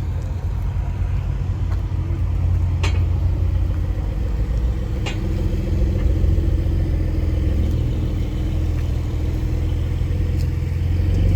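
A car engine running with a steady low rumble, with a couple of short clicks along the way.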